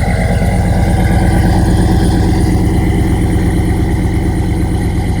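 A 2007 Chevy Suburban's 5.3L V8 idling steadily through an exhaust with the catalytic converters deleted, long-tube headers and a knockoff Flowmaster 40 series muffler in front of the stock resonator. The engine also has a DOD delete and a Stage 2 low-lift cam.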